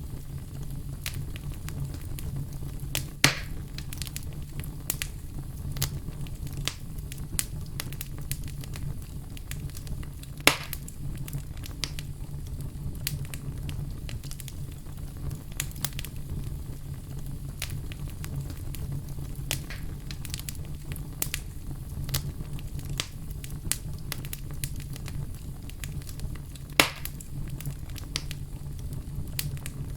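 Wood fire crackling steadily over a low rumble, with many small snaps and three louder pops: about three seconds in, about ten seconds in and near the end.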